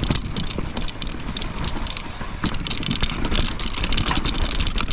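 Mountain bike rattling and clicking over a wet, rooty forest trail, a dense run of small knocks over a low rumble.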